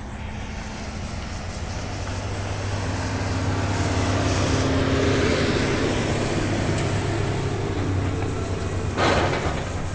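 Union Pacific diesel locomotive under way, heard from inside: a steady engine drone with rail noise, growing louder over the first few seconds, and a brief loud burst near the end.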